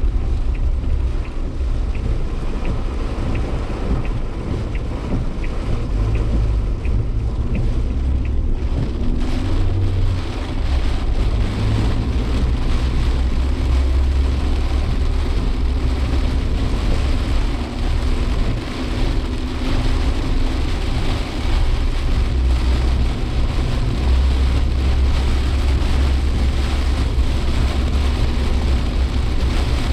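Inside a Suzuki Jimny Sierra driving through typhoon rain: a steady low engine and road rumble under the hiss of rain and spray on the car. The rain noise grows heavier about nine seconds in. Faint regular ticking sounds during the first several seconds.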